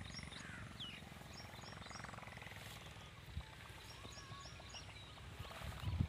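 Outdoor ambience with birds chirping over a steady low background rumble. A small bird gives a short series of three or four high chirps twice, and a brief low thump comes near the end.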